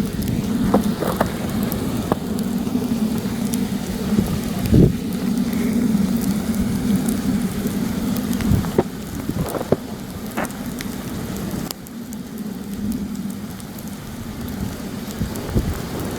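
Campfire crackling with scattered sharp pops, under heavy wind blowing across the microphone as a steady rumbling noise. The wind eases a little about twelve seconds in.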